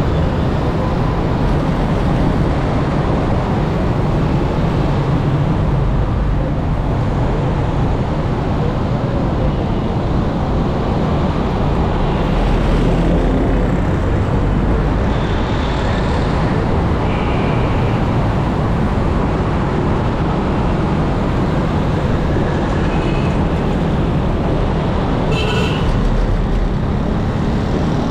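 Steady rumble of road traffic and vehicle noise, heaviest in the low end, with a few brief high tones about halfway through and again near the end.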